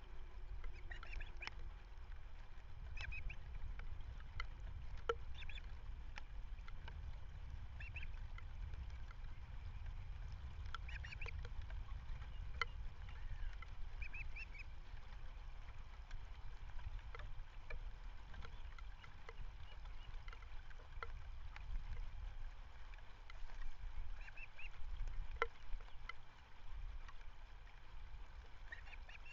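Wind rumbling on an outdoor webcam microphone, with short bird calls now and then and a few light clicks.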